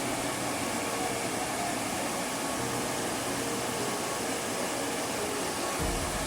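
Steady rush of stream water, an even noise across the whole range. A low rumble joins near the end.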